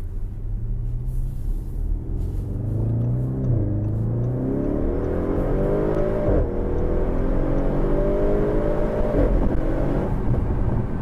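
2016 Audi RS7's 4.0-litre twin-turbo V8 accelerating hard through the gears, heard from inside the cabin. The engine note rises and drops back at each of three upshifts, about three and a half, six and a half and nine seconds in.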